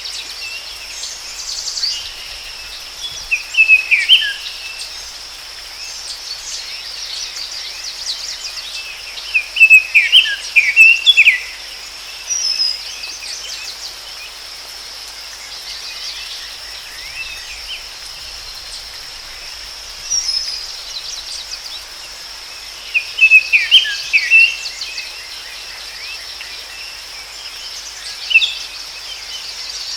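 Forest ambience: a songbird sings quick chirping phrases every few seconds, about seven times, over a steady high insect drone and a constant background hiss.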